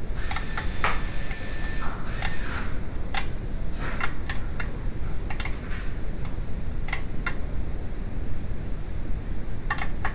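Metal hand tools and engine parts clinking and clicking, some with a short metallic ring, during repair work on a VW 2.0L engine, over a steady low hum.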